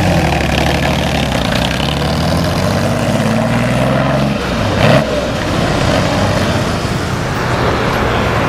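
Lamborghini Miura SV's V12 engine running at a steady idle, then one short, sharp rev blip about five seconds in before it drops back to a rougher, uneven idle.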